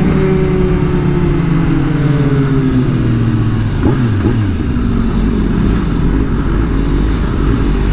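Sport-bike engines running on the road, their pitch falling steadily as the bikes slow for the first few seconds, then a quick dip and rise in engine note about four seconds in before settling into a steady low rumble.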